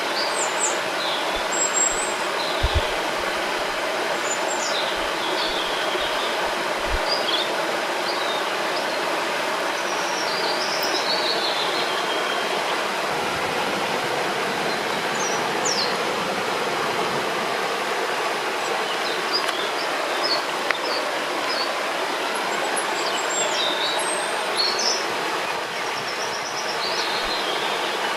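Steady rush of a flowing river, with small birds chirping and whistling in short high calls throughout. A few soft low thumps come in the first few seconds.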